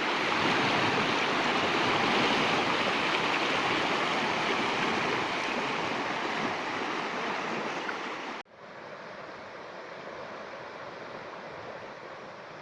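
Floodwater of an overflowing river rushing steadily. About eight seconds in it cuts off abruptly and continues as a quieter, duller rush.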